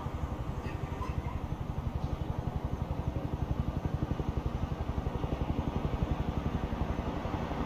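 Low engine rumble of a motor vehicle in town traffic, pulsing rapidly and evenly, growing louder to a peak about six seconds in, then easing, over a steady background hiss.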